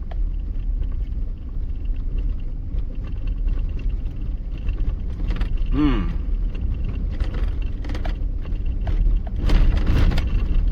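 A vehicle driving slowly over a rough, rutted dirt road, heard from inside the cab: a steady low rumble of engine and tyres with rattles and knocks from the bumps. The knocks get louder near the end.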